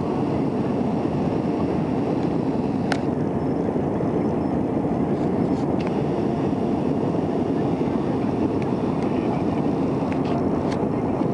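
Steady airliner cabin noise: the even rush of engines and airflow heard from a passenger seat, with a few faint clicks.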